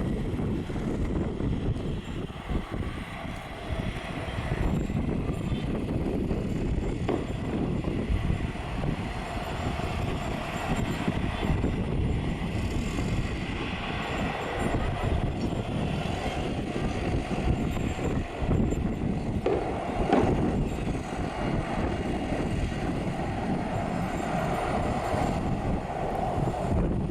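Boeing 737 twin jet engines at takeoff thrust: a steady, heavy rumble of jet noise that holds throughout.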